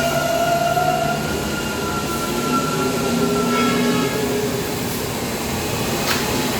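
New York City subway train running through the station, a rumble with several steady whining and squealing tones that shift in pitch about four seconds in. A single sharp click comes about six seconds in.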